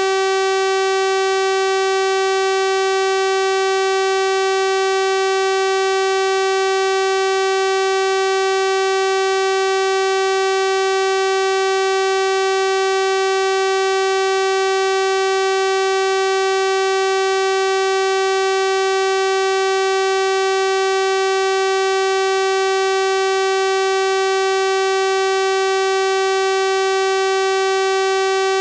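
A synthesized 384 Hz sawtooth wave, held as one steady buzzing tone with no change in pitch or level.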